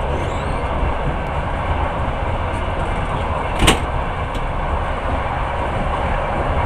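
Passenger train running along the track, a steady rumble and rushing noise heard from inside the carriage, with one sharp knock a little past halfway through.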